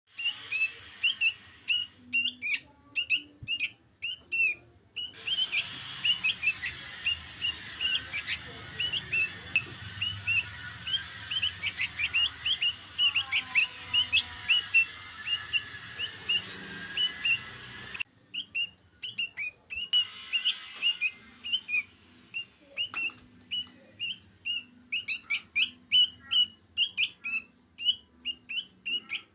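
Young sooty-headed bulbul begging to be fed: rapid, repeated short high chirps, several a second, with a few pauses.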